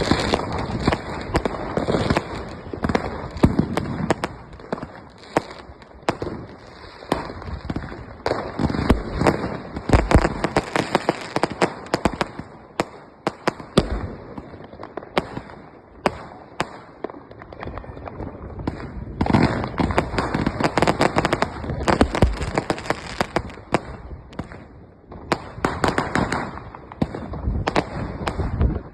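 Fireworks going off: many sharp bangs and dense crackling, coming in waves every few seconds with scattered single bangs in between.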